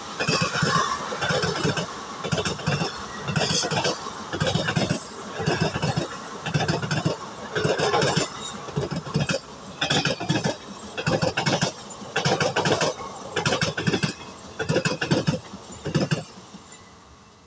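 Passenger coaches of an express train rolling past at speed, their wheels clattering over the rail joints in a steady rhythm of knocks, a little more than one a second. The clatter dies away quickly near the end as the last coach passes.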